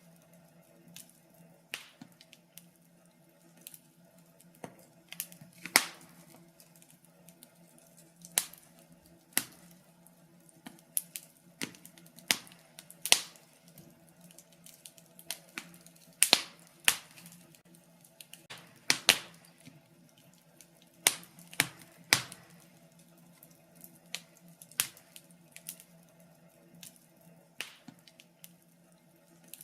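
Wood fire crackling in a fireplace: irregular sharp pops and snaps, a cluster of louder ones in the middle, over a faint steady low hum.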